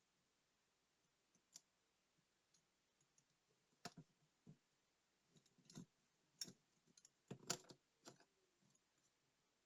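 Scattered small, sharp clicks and taps of tools and tiny parts being handled during work on a digital wristwatch, sparse at first and busier from about four seconds in, the loudest near the end.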